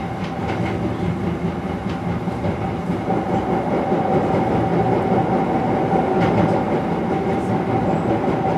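Izukyu Resort 21 electric train running along the line, heard from inside the car: a steady rumble of wheels on rail with a steady whine that grows stronger about three seconds in, and a few light clicks.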